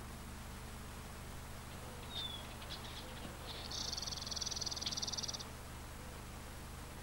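Male red bishop singing: a few dry ticks and a short falling whistle, then a high, rapidly pulsing buzz lasting about a second and a half.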